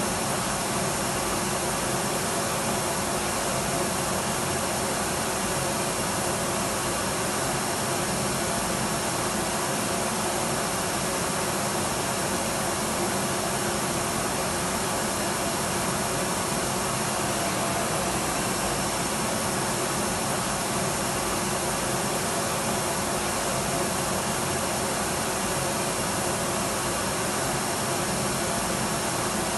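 Electric vacuum cleaner running steadily, a constant whooshing motor hum with a faint whine, unchanging throughout.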